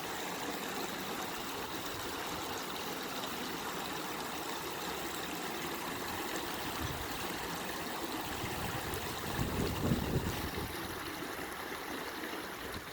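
River water flowing in a steady rushing stream, with a brief louder low rumble about ten seconds in.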